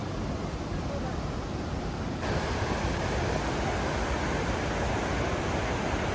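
Steady rushing of the Sopheakmit waterfall, an even wash of water noise. About two seconds in it steps up louder and brighter.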